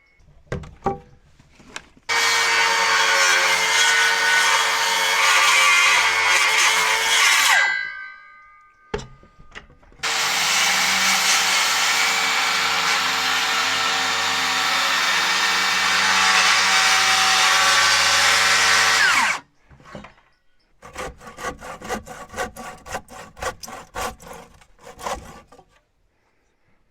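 Electric saw cutting lumber set to a 28-degree angle. It makes two long cuts of about six and nine seconds, each ending as the blade winds down. About four seconds of quick, rhythmic scraping strokes follow near the end.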